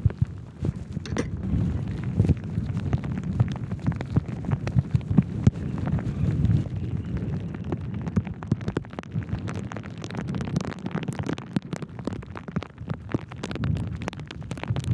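Heavy rain, with drops striking the microphone and rain jacket as dense irregular clicks, over the low rumble of wind buffeting the microphone.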